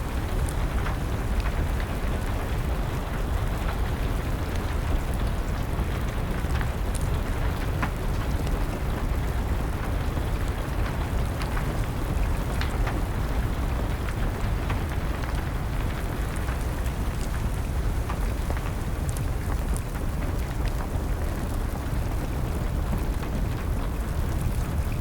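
Rain falling steadily together with a crackling wood fire: a dense, even rain hiss with a deep rumble under it, and scattered sharp crackles from the fire.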